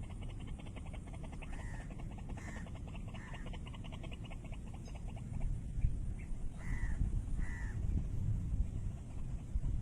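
White-breasted waterhen calling: a fast run of croaking pulses for the first half, then separate short calls, two of them louder about seven seconds in, over a steady low rumble.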